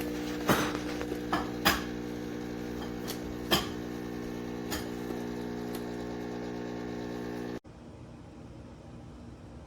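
Espresso machine running with a steady mechanical hum, with several sharp clicks and knocks over the first few seconds. The hum cuts off abruptly near the end, leaving a faint hiss.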